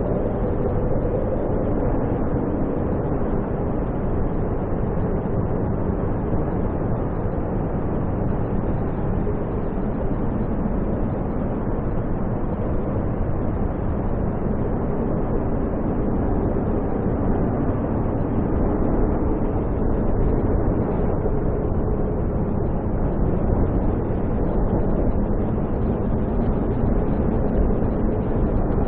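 Strong snowstorm wind blowing steadily, a constant low rumbling rush with no breaks.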